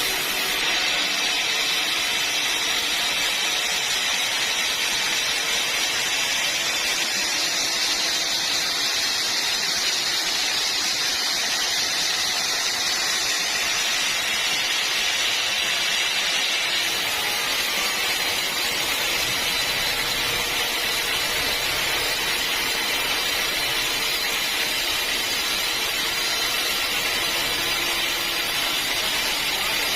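Sawmill saw running steadily with a continuous hiss, without a break.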